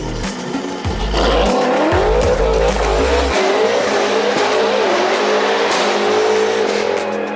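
BMW M6's twin-turbo V8 with an Akrapovic exhaust accelerating hard as the car pulls away, loud, the engine pitch climbing and dropping back several times through gear changes from about a second in.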